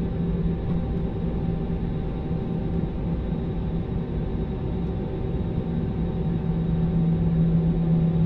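Airliner cabin noise: the jet engines and airflow give a steady low rumble with a constant droning hum.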